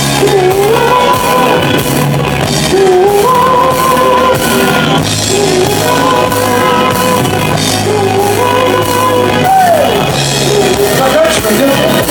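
Live pop band playing a song, amplified in a large hall: a sung melody held in long notes that slide from one pitch to the next, over a bass line that changes every couple of seconds and light cymbal ticks.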